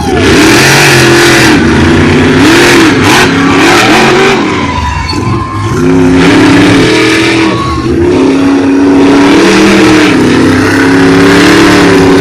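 Monster truck engines racing at full throttle, loud, their pitch rising and falling again and again as the throttle is worked, with a brief drop in level about five seconds in.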